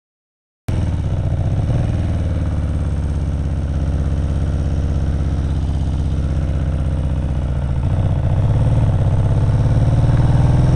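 Kawasaki KZ750 motorcycle engine running steadily, cutting in abruptly after a moment of silence, then getting louder and rising a little in pitch near the end.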